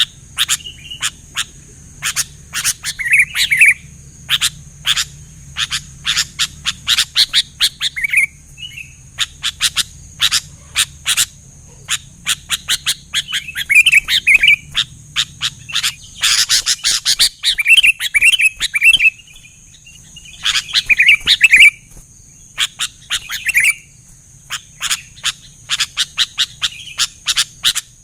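Sooty-headed bulbul calling: rapid sharp chip notes with short bubbly warbled phrases every couple of seconds, over a steady faint high hiss.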